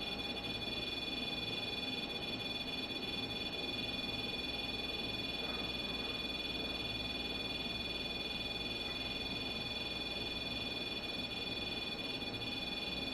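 A steady, high-pitched electronic whine made of several pitches held at once, over a faint even hiss.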